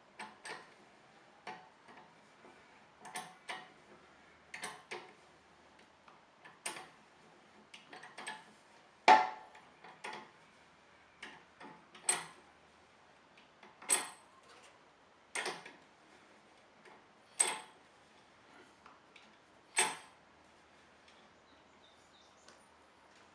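Metallic clicks and clanks, roughly one every one to two seconds, from a scissor-type motorcycle lift being wound up by hand while it carries the bike's weight. The loudest clank comes about nine seconds in.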